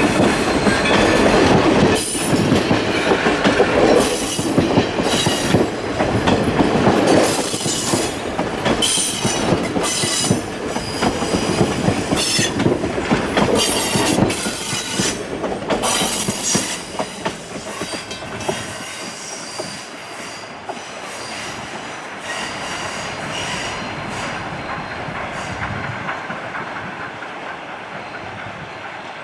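Steam-hauled passenger train's tender and coaches rolling past close by, the wheels clicking over rail joints and squealing. About two-thirds of the way through the clicks die away, and the sound fades steadily as the train recedes.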